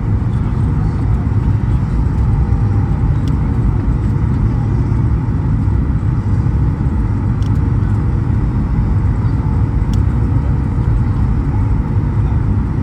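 Steady low rumble of a Boeing 737 MAX 8's CFM LEAP-1B jet engines and rushing air, heard inside the passenger cabin, with a faint steady hum above it.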